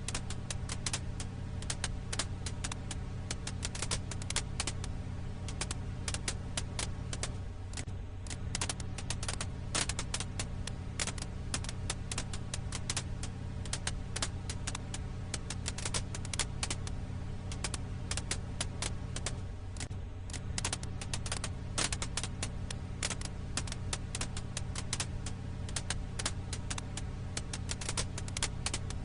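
Firewood crackling: a dense, irregular run of sharp pops and crackles, several a second, over a steady low hum.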